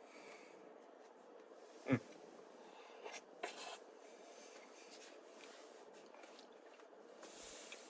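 Faint eating sounds of someone tasting a very thick Wendy's Frosty: light scraping and rubbing, a few small clicks, and one short louder sound with a falling pitch about two seconds in.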